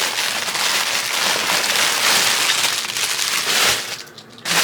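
Plastic packaging crinkling and rustling as hair bundles are handled, with a short drop-off a little after four seconds in.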